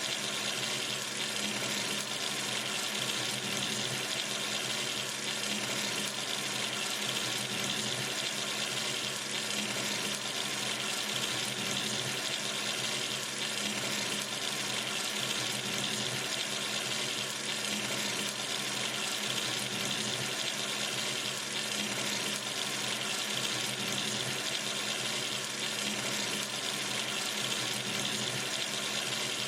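Water running steadily from a sink tap into the basin, an even, unbroken rush.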